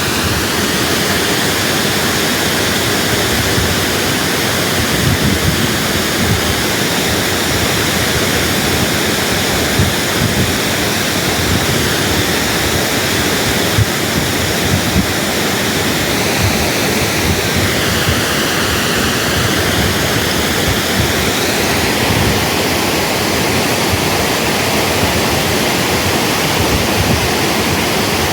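Nanuoya Waterfall, a 60-metre cascade over rocky steps, rushing loudly and steadily.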